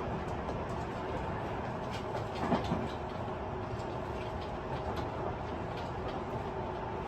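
Interior running sound of a Tobu 50090 series electric train's motor car: a steady rumble of wheels on rail with scattered short clicks. There is a brief louder knock about two and a half seconds in.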